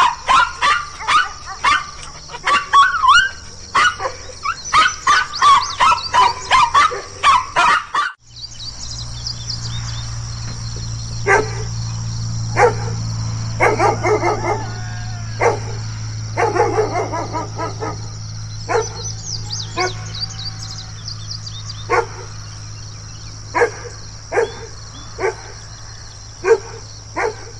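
Dogs barking angrily: fast, repeated barking for about the first eight seconds, then a cut to a different recording of single barks spaced a second or two apart, over a steady low hum and continuous high chirping.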